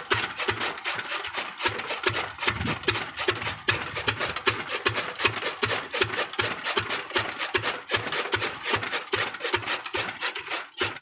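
Pumpset engine running a chaff cutter, a fast, even run of sharp knocks that cuts off suddenly at the end.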